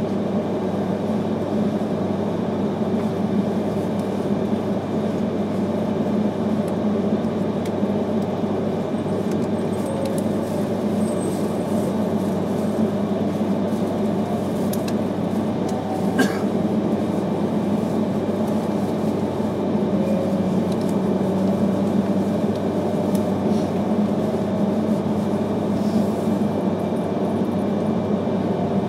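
Steady running noise inside the cabin of an E3-series Akita Shinkansen 'Komachi' train: an even low rumble of wheels on rail with faint whines, and a single sharp click about sixteen seconds in.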